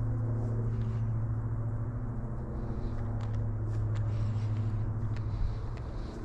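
A motor running steadily: a low, even hum that holds one pitch, with a few faint ticks above it.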